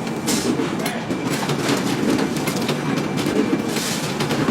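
Computerized circular sock-knitting machines running: a steady mechanical clatter with many rapid, irregular clicks.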